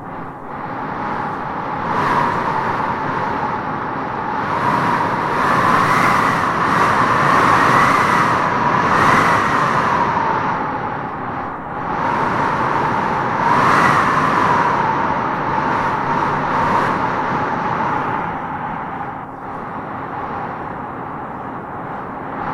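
Wind gusting through trees with a howling whistle that rises and falls in pitch over a steady rush. The gusts swell several times, strongest about a third of the way in and again a little past halfway.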